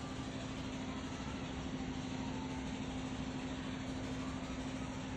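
A steady low hum holding one pitch, over a constant even noise.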